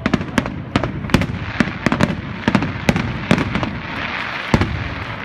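Aerial fireworks going off in a rapid series of sharp bangs, about two or three a second, with a denser crackle about four seconds in.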